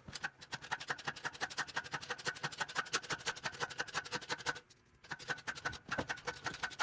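Fast, even ratchet clicking, about ten clicks a second, as a tool works in the garage while the engine is being mounted on its stand. The clicking pauses briefly near the end and then starts again.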